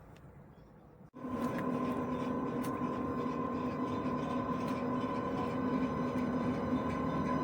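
A train at the platform, starting abruptly about a second in and then growing slowly louder: a steady rumble with a steady high whine over it and occasional clicks.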